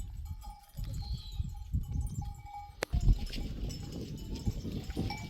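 A herd of goats and sheep with faint bleats and the clink of animal bells, over an irregular low buffeting noise. There is one sharp knock about three seconds in.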